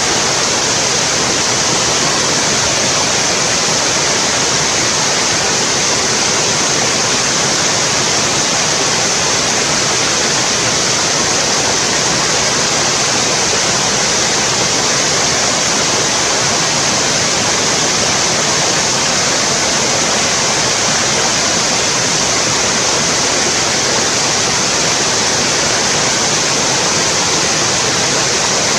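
Mountain stream running in a steady, loud rush of water, unchanging throughout.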